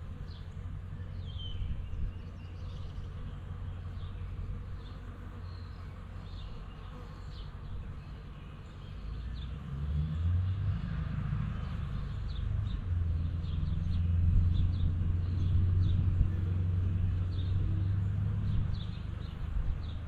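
Honeybees buzzing as they fly in and out of a nook box, the buzz getting louder about halfway through. Birds chirp briefly and repeatedly in the background.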